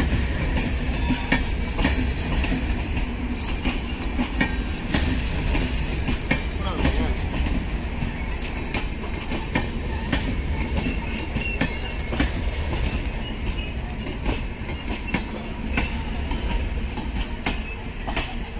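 LHB passenger coaches rolling past on the track, their wheels clacking over the rail joints again and again above a steady low rumble.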